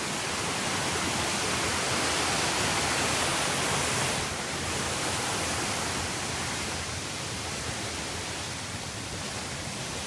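Steady rushing of a creek cascading over rocks, a dense, even hiss that eases slightly about four seconds in.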